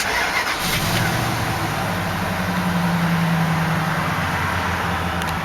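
Steady motor-vehicle engine drone over traffic noise from a nearby highway. The low engine hum swells about a second in and holds.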